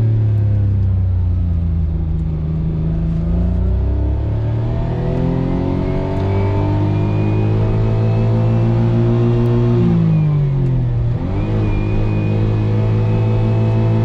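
Autozam AZ-1's turbocharged three-cylinder engine running through a straight downpipe with no catalytic converter, the revs rising slowly with a faint high turbo whistle climbing above it. About ten seconds in the revs drop sharply, then climb again.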